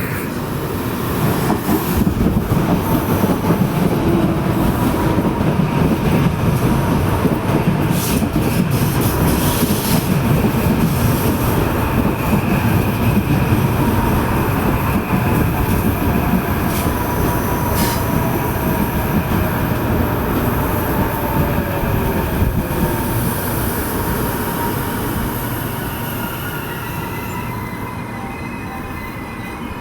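A train passing close by, its wheels running on the rails with a heavy steady rumble, thin metallic squeals from the wheels and a few sharp clacks. The rumble builds about a second in and fades off near the end.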